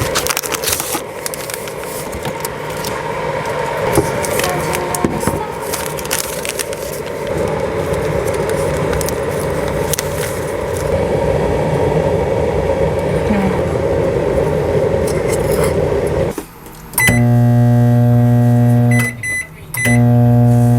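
A steady rumbling noise with scattered clicks, then a loud electronic buzzer from about 17 seconds in: it sounds for about two seconds, stops for a moment, and starts again.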